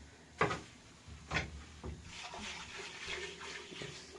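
Three short knocks of kitchen utensils in the first two seconds, then water splashing unevenly, as in washing or rinsing at a basin.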